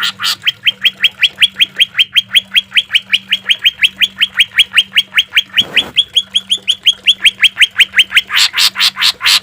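Greater green leafbird (cucak ijo) singing a fast 'tembakan' run: sharp, identical rising notes repeated about six times a second. Near the end it switches to louder, fuller notes.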